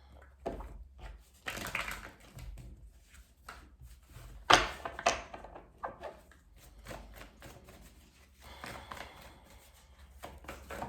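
Tarot cards being shuffled by hand: an irregular run of card slaps, riffles and rustles, with a sharp slap about four and a half seconds in.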